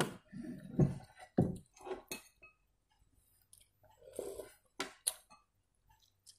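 A person chewing mouthfuls of instant noodles close to the microphone, in short, irregular bursts, with a few sharp clicks of a metal spoon against the dishes.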